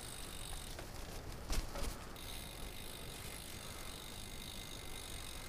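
Bicycle rolling, with a couple of knocks about a second and a half in as it jolts, then the rear freewheel hub ticking steadily as it coasts.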